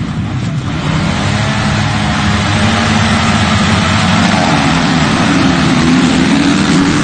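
Motocross motorcycle engines running hard at high revs, the pitch wavering and then climbing over the last few seconds as the throttle is held open.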